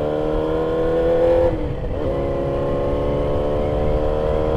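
Yamaha R6 inline-four engine running under way. The pitch climbs slightly, dips briefly about one and a half seconds in, then holds steady.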